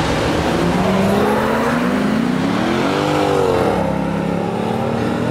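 Dark estate car's engine accelerating past and away, its note climbing for about a second and a half, then dropping back about three and a half seconds in, and starting to climb again near the end.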